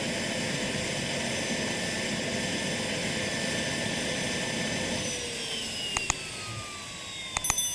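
Radio-controlled model helicopter's motor and rotor whining steadily, then winding down, falling in pitch from about five seconds in. A few sharp clicks near the end.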